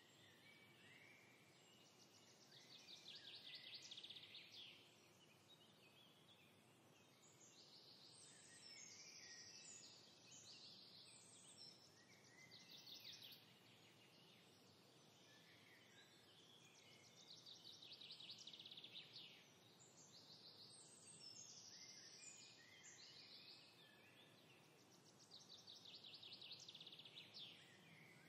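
Faint birdsong: songbirds repeating high chirping phrases, with a fast trill several times, over a light steady hiss.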